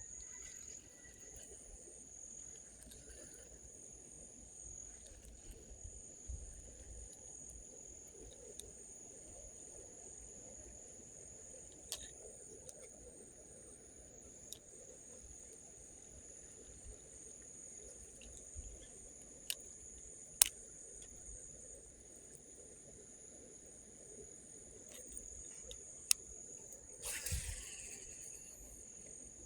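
Steady high-pitched insect chirring, with one band pulsing rapidly, and a few scattered sharp clicks.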